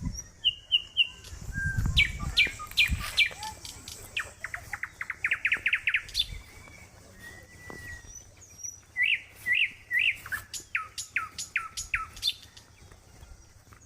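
Several birds calling: runs of sharp chirps that sweep down in pitch, and a fast trill about five seconds in. There is a brief low rumble about two seconds in.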